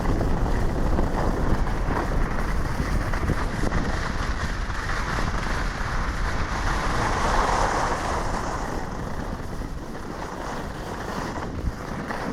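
Wind rushing over the microphone of a camera carried by a skier going downhill, a steady rumbling hiss that swells about midway and eases toward the end.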